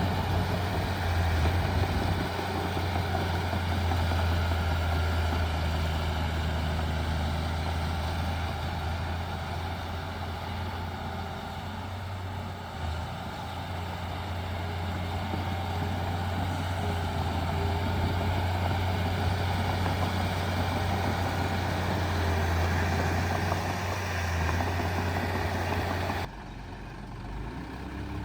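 Heavy diesel engine of earthmoving machinery running steadily with a deep, even hum. The sound drops abruptly to a lower, quieter engine note about two seconds before the end.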